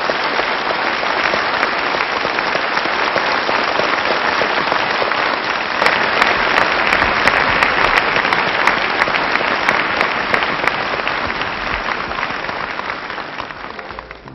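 Audience applauding at the end of a song: a dense patter of clapping that swells about six seconds in and fades near the end.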